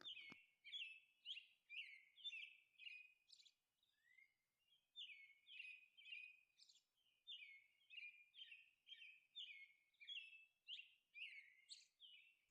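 Faint bird chirping: a steady series of short, high, downward-sliding chirps, about two a second.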